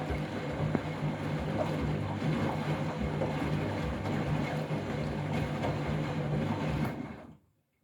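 Washing machine running with a steady rush of water and a low hum, cutting out about seven seconds in.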